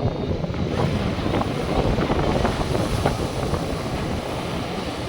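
North Sea surf breaking and washing on the beach, with wind buffeting the microphone; the wash swells with a brighter hiss about a second in.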